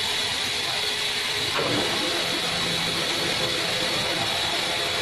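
Heavy machinery running steadily, with a strong hiss over a low engine drone and a short knock about a second and a half in.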